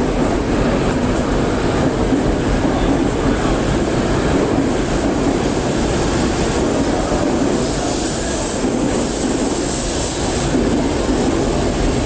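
E5-series Shinkansen pulling out of the station, its cars rolling past with a steady, loud rush of running noise and a thin high whine held throughout.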